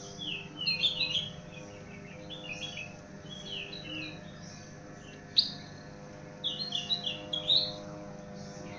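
Small birds chirping in quick bouts of short, high notes: a run near the start, more about two and a half and four seconds in, a single sharp note a little past five seconds, and a busier run between six and a half and eight seconds.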